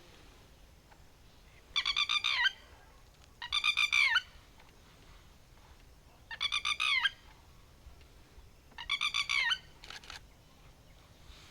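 A bird calling four times, every couple of seconds. Each call is short and made of rapid pulses, dropping in pitch at its end.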